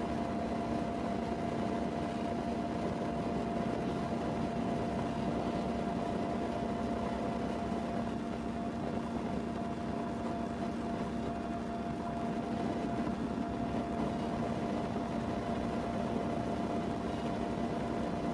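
Steady hum and hiss inside an idling vehicle, with a few constant tones and no change throughout.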